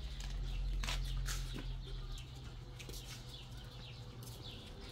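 Birds chirping in short falling calls, with a few sharp clicks in the first two seconds and a steady low hum underneath.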